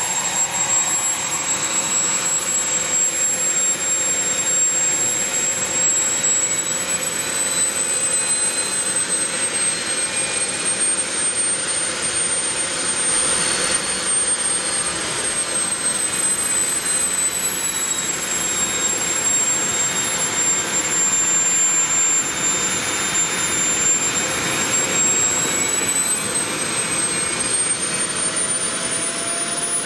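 Small model jet turbine engine running steadily, a loud rushing exhaust with a thin high-pitched whine that wavers slightly in pitch and climbs a little near the end.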